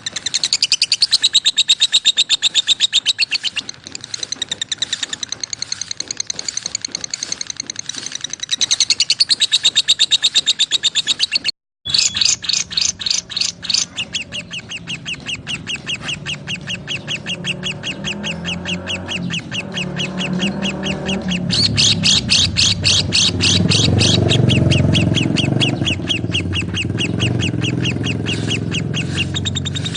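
Lovebirds chirping in fast, continuous trains of high chirps, with a sudden brief break about twelve seconds in before the chirping resumes. A lower sound builds up underneath the chirping in the second half.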